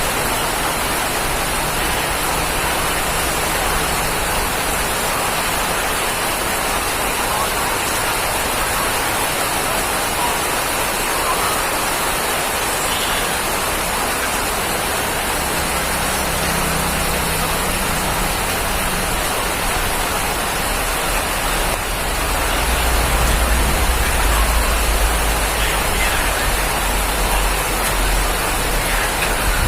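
Steady heavy rain falling, an even hiss spread across the whole range. About three-quarters of the way through, a low rumble joins in under it.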